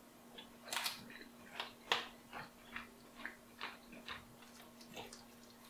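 A man chewing a mouthful of chicken and potato bake: soft, wet mouth clicks, about two a second. A faint steady hum runs underneath.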